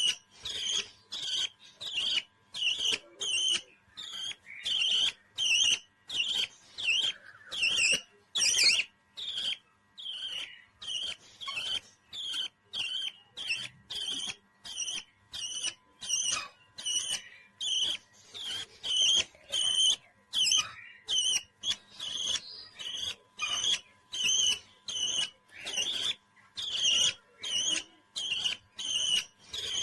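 A parrot giving short, high chirping calls over and over in a steady rhythm, about two a second.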